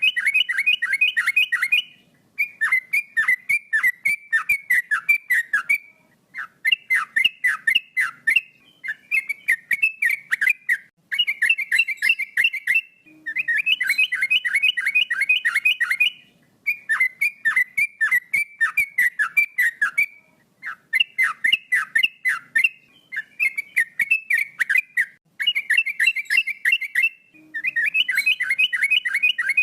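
Male yellow-vented bulbul (trucukan) singing steadily: rapid bubbling phrases of about two seconds each, repeated over and over with short pauses between them.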